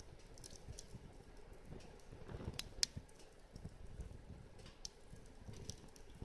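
Wood fire crackling: irregular sharp pops and snaps over the low rush of burning wood, with one louder pop about three seconds in.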